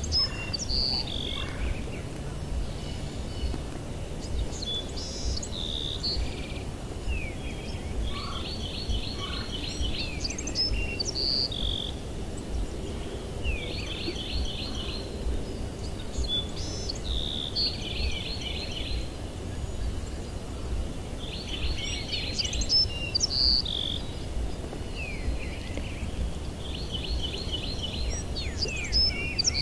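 Songbirds singing: a short phrase of rapid high notes, repeated every few seconds, over a steady low rumble.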